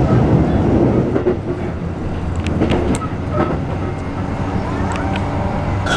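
Running noise inside a Keikyu New 1000 series (1890 subseries) electric train car with a Toyo hybrid SiC VVVF inverter: steady rumble of the wheels on the rails with a low motor hum and a few sharp clicks from the track.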